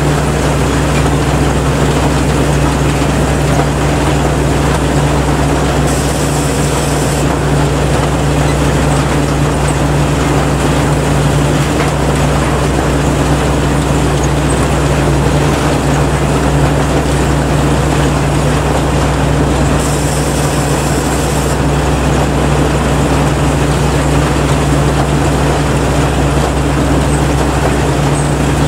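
Kaset Pattana combine harvester running steadily while harvesting rice: an even, loud engine drone over the rush of its machinery. A short high hiss comes in twice, about six seconds in and again about twenty seconds in.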